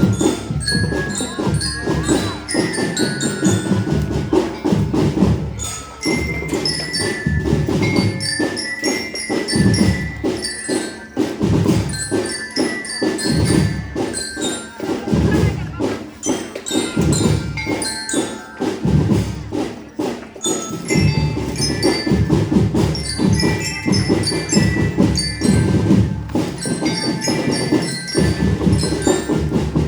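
Marching drum band playing: dense snare and bass drum beats under a bright melody picked out on glockenspiel (bell-lyra).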